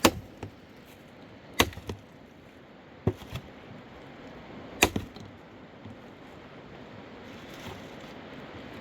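Heavy blows of a tool on wood: four sharp strikes about a second and a half apart, each followed by a lighter knock, then no strikes in the last few seconds.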